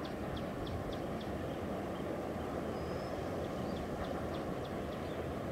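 Distant passenger train rumbling steadily as it crosses a steel truss bridge, with short high chirps scattered over it.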